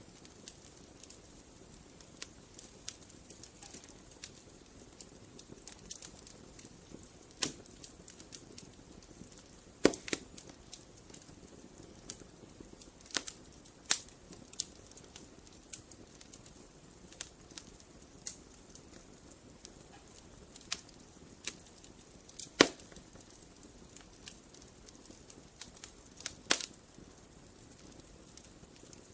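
Wood campfire crackling: irregular sharp pops and snaps over a soft steady hiss, with a few louder pops scattered through.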